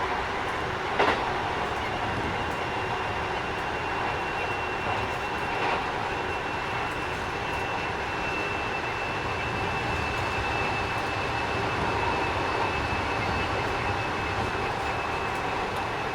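Interior running noise of a Keikyu 1000 series electric train with Mitsubishi IGBT traction control travelling at speed: a steady rumble with two sharp knocks, about a second in and near six seconds. A thin high whine holds steady through the second half. This unit is a little noisier than other sets.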